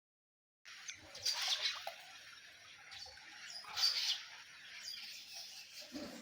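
Outdoor ambience with birds chirping, starting under a second in after a moment of dead silence, with louder chirps about a second in and again near four seconds in.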